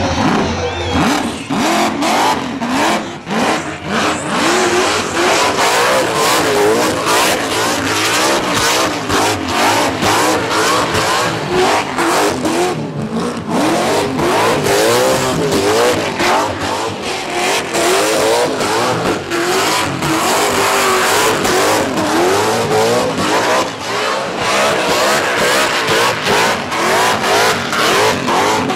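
Supercharged 540 cubic-inch V8 of an HT Holden held at high revs in a burnout, its pitch swinging rapidly up and down as the throttle works, over the noise of the spinning rear tyres.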